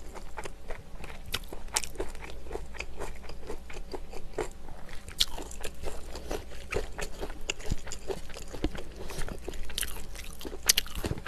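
Close-miked chewing of a mouthful of river snails in soybean-paste stew: a continuous run of irregular wet mouth clicks and soft crunches.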